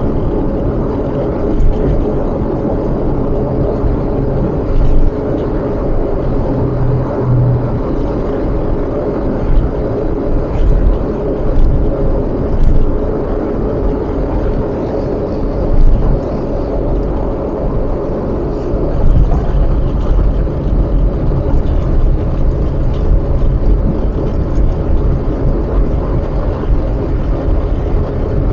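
Car cabin noise while driving in city traffic: a steady low rumble of engine and tyres on the road, swelling briefly now and then.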